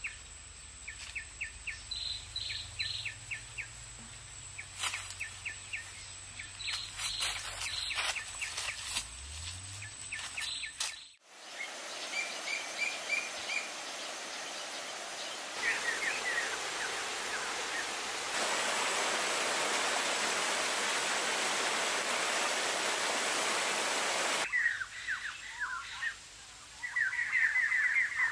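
Small birds chirping in quick runs of short repeated notes over a steady outdoor background. About two-thirds of the way through, a steady hiss swells and covers the chirps for several seconds, then stops abruptly and the chirping returns.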